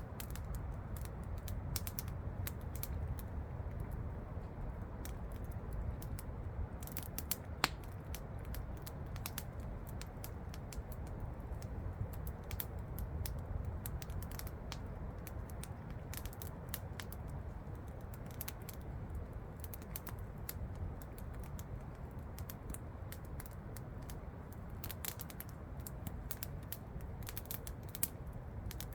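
Wood campfire crackling with irregular sharp pops and snaps, one louder pop about seven and a half seconds in, over the steady low rush of a waterfall.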